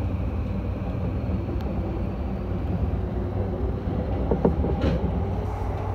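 Steady rumble of a JR Yamanote Line electric commuter train running along the track, heard from inside the front car.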